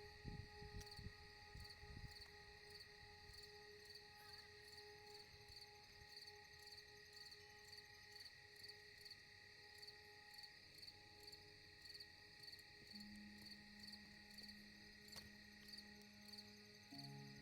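Faint insects chirping in the background, a high pulsing call repeating about three times a second over steady thin hums.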